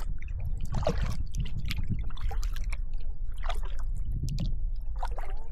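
Kayak paddle strokes dipping into the water, with irregular splashes and water dripping and trickling off the blades, over a steady low rumble.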